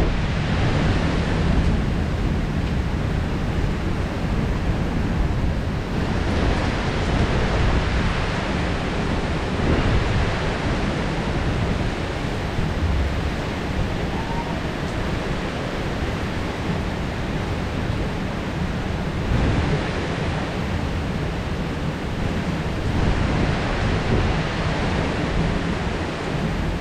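Heavy rain downpour with a steady hiss over a deep low rumble. The hiss swells and eases several times.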